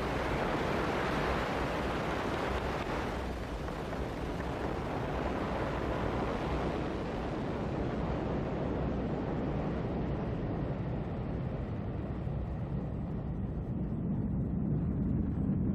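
Ariane 5 rocket firing its main engine and two solid boosters just after liftoff: a steady, deep rushing noise whose higher part gradually fades as the rocket climbs away.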